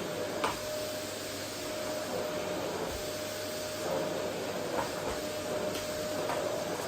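Vacuum cleaner running steadily, a constant rushing noise with a steady whine over it. A few light knocks come through, about half a second in and again near the end.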